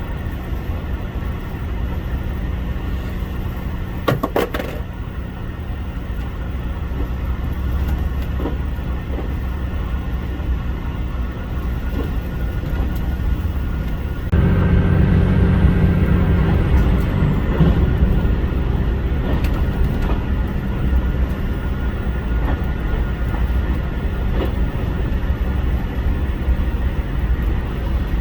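HOT7000 series diesel railcar running under way, its diesel engines drumming steadily, with a brief clatter about four seconds in. About halfway through the engine sound steps up suddenly and stays louder.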